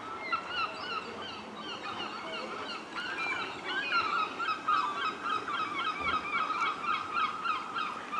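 A flock of birds calling: many short, repeated calls overlapping one another, growing busier about three seconds in.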